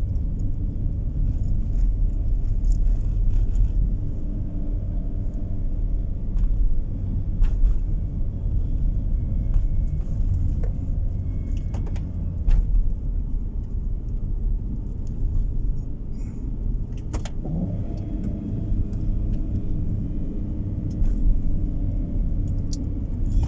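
Steady low rumble of engine and tyre noise inside a moving car's cabin, with a few faint clicks and knocks.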